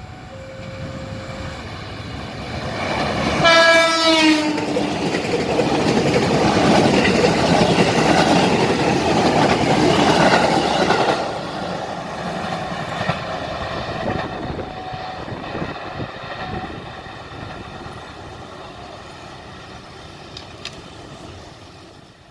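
Train horn giving one short blast about three and a half seconds in as a train passes close by. The rush and clatter of the wheels on the rails stays loud for several seconds, then fades steadily away.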